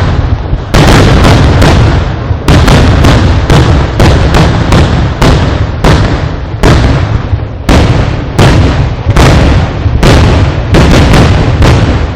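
Fireworks display: a rapid, unbroken run of loud blasts going off about two to three a second, each with a short echo, over a continuous low rumble.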